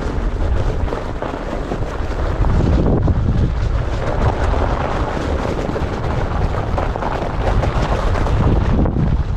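Heavy wind buffeting the microphone: a loud, uneven rumble with hiss over it.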